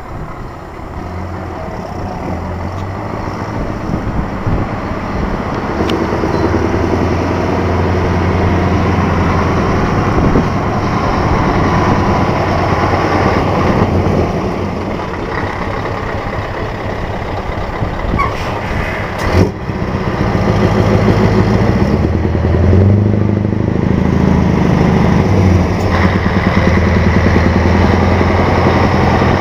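Scania 164G's 480 hp V8 diesel engine running, growing louder over the first several seconds, with brief changes in engine pitch in the last third. A single sharp knock about two thirds of the way through.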